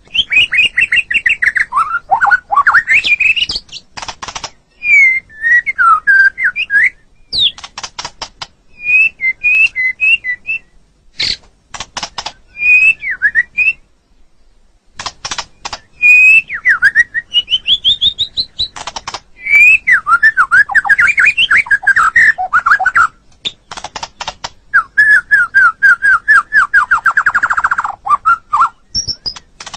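White-rumped shama singing a long, varied song of loud whistled notes and quick rising and falling sweeps, broken by rapid sharp clicking notes. It pauses briefly about halfway through.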